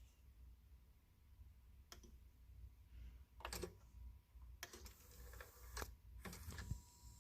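A handful of faint, irregular mechanical clicks and rattles, clustered toward the second half, over a faint steady high tone.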